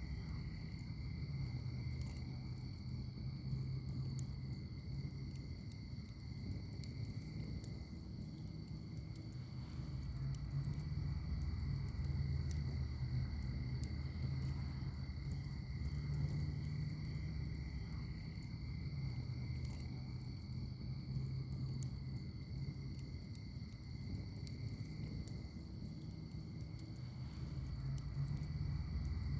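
Wood fire in a fire pit crackling, with scattered sharp pops over a low, wavering rumble of the flames. Insects trill steadily underneath at two high pitches.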